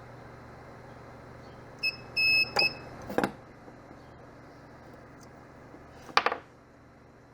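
Mini spot welder beeping, then the sharp snaps of spot-weld discharges joining nickel strip to 18650 cells: two snaps near three seconds in and a double snap about six seconds in.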